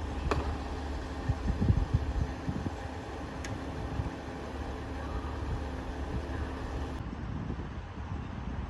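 Diesel train running, a steady low engine drone and rumble with a few knocks in the first three seconds. The sound changes abruptly about seven seconds in, as at an edit.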